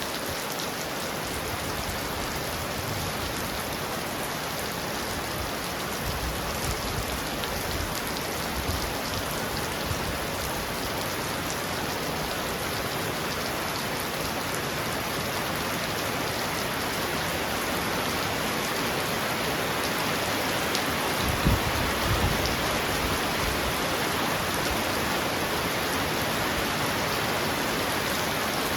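Heavy rain falling steadily on a roof, with a brief low thump about three quarters of the way through.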